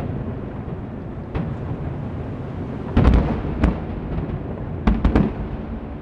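Aerial fireworks shells bursting: a string of deep booms over a continuous low rumble. The loudest bang comes about three seconds in, another follows half a second later, and two more come close together near the end.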